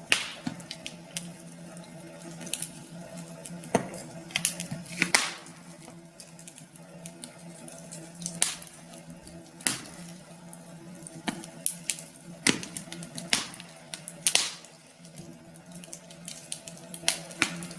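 Wood fire crackling, with irregular sharp pops of varying loudness over a steady hiss. A faint steady hum runs underneath.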